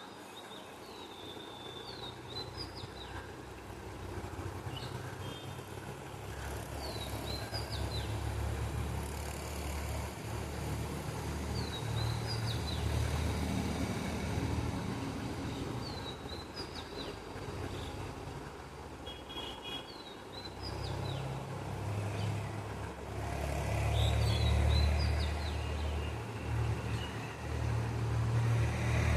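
A songbird repeating a short, high, chirped phrase every two to three seconds, over a low rumble that grows louder in the second half.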